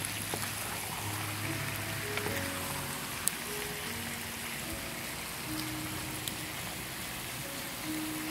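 Cubed pork with garlic, onion and carrot sizzling in a frying pan as it is stirred with a wooden spatula, with a few sharp clicks. Soft background music with slow, held notes plays over it.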